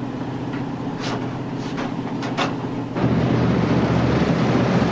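A patrol boat's engines droning steadily, with a few faint clicks. About three seconds in, the engine noise jumps louder and rougher.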